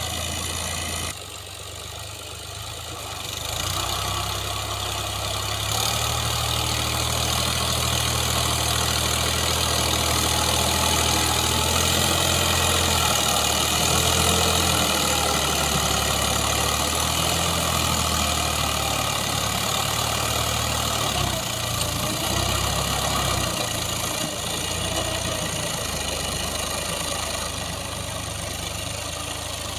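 Al-Ghazi tractor's diesel engine running steadily. It gets louder a few seconds in, holds there, turns unsteady after about twenty seconds, then eases off near the end.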